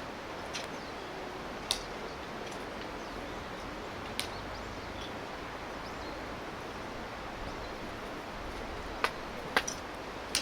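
Wood fire crackling: a handful of sharp, separate pops over a steady background hiss, the loudest pops coming near the end.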